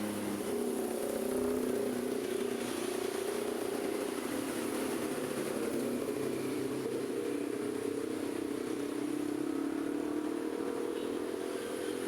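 Road traffic on a busy city street: a vehicle engine running with a steady hum over the general noise of passing traffic.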